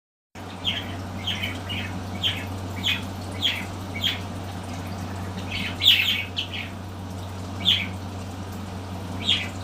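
Pet birds giving short, sharp calls again and again, with the loudest burst about six seconds in, over a steady low electrical hum.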